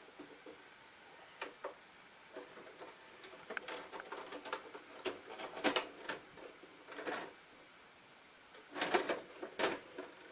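A run of irregular sharp clicks and short rattles, spaced unevenly, with a busier cluster near the middle and another near the end.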